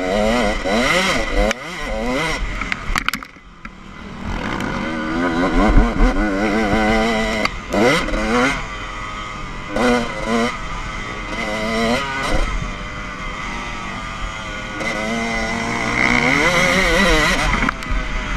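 Motocross bike engine revving hard and easing off again and again, its pitch rising and falling. About three seconds in it drops away briefly before picking up again.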